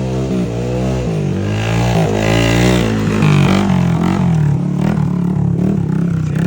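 Off-road vehicle engine revving hard under load, its pitch rising and falling repeatedly as the throttle is worked.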